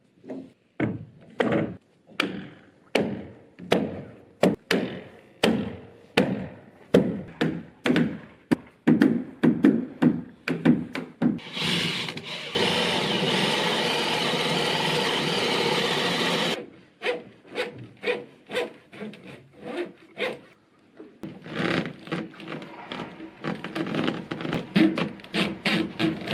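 Wood being worked by hand with rhythmic strokes, about two a second. About halfway through, the strokes give way to roughly four seconds of a steady power tool, then quicker strokes resume.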